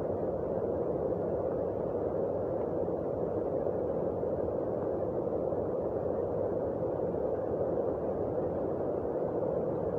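Heavy rain falling, a steady even rush with no breaks.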